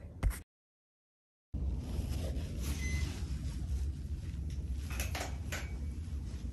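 A hand bumps the phone's microphone, then the sound drops out completely for about a second at an edit. After that comes a steady low room rumble from the phone held low in an exam room, with a few light clicks and knocks around the five-second mark.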